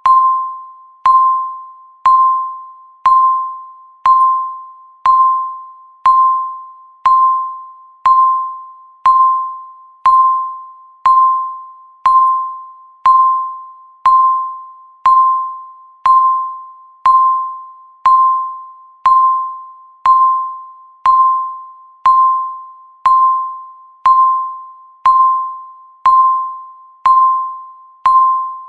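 Countdown timer beep sounding once a second: a single tone of about 1 kHz, each beep starting sharply and fading away before the next.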